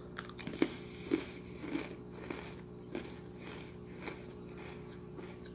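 A person chewing an Oreo Most Stuf cookie: faint short crunches, coming quickly in the first couple of seconds and then more sparsely.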